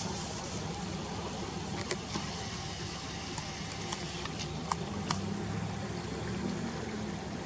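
Steady low hum like a running engine or distant road traffic, with about half a dozen faint, sharp clicks scattered through the middle.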